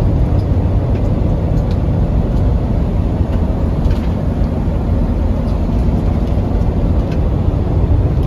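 Semi truck driving at highway speed: a steady, loud, low engine and road noise.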